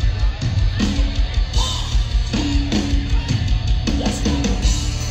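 Live country-rock band playing loudly, heard from the crowd: a steady drum beat and bass under electric and acoustic guitars, with a singer's voice.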